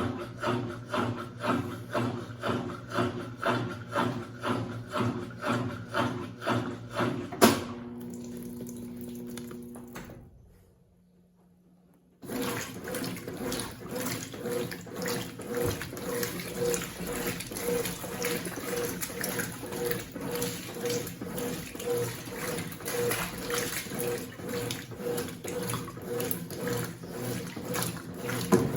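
Consul 8 kg top-load washing machine agitating in even strokes about twice a second. About seven seconds in it stops with a click, a short hum and a pause of about two seconds. Then water starts running into the tub, a steady rush that lasts to the end.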